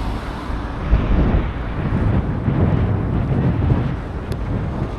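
Wind buffeting the microphone over outdoor city background noise, an uneven low rumble that swells and drops, with a single faint tick about four seconds in.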